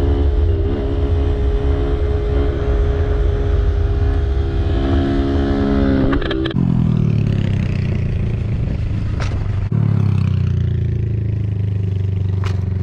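Honda Grom's small single-cylinder engine running steadily at road speed, with wind rumble on the microphone. About six and a half seconds in, the throttle is rolled off and the engine note falls. Near ten seconds the sound cuts to another steady small-motorcycle engine note, with a few sharp clicks near the end.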